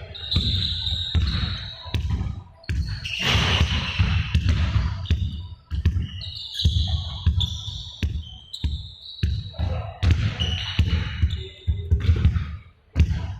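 Balls bouncing on a hard floor in a large hall, many bounces in quick, irregular succession, with short high squeaks in between.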